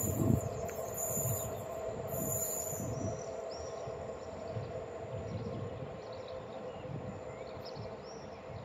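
Passenger train hauled by a 060-EA (LE 5100 kW) electric locomotive running on the line, with a steady hum and low wheel knocks about once a second, slowly fading as it moves away.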